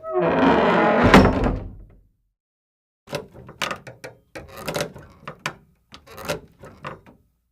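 Library sound effects played one after another: a noisy rush with a heavy thud about a second in, then after a short silence a run of irregular knocks and clicks, door- or drawer-like.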